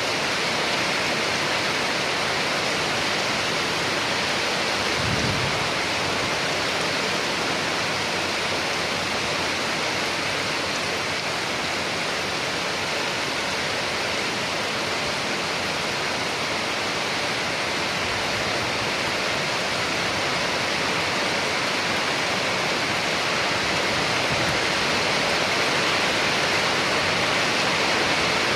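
Rain falling steadily, an even hiss of water, with a brief low thud about five seconds in.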